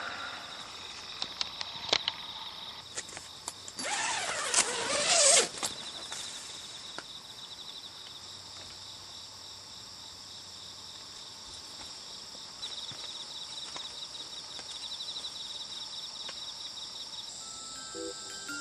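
Insects chirping steadily in a high, even drone, with a few sharp clicks early on and a loud rustling burst lasting about a second and a half around four seconds in.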